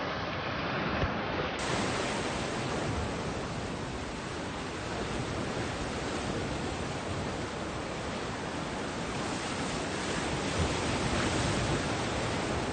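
Sea surf washing on the shore, heard as a steady, even rush of noise.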